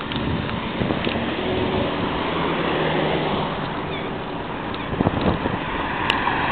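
Car driving, with steady road and engine noise and a few small knocks.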